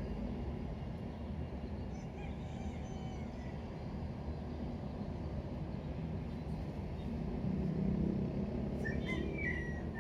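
Outdoor ambience: a steady low rumble like distant traffic, with a few faint bird chirps about two seconds in and a brighter cluster near the end.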